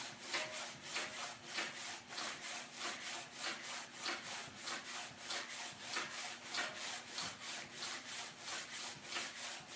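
Steady back-and-forth hand rubbing or scrubbing on a part, about three strokes a second.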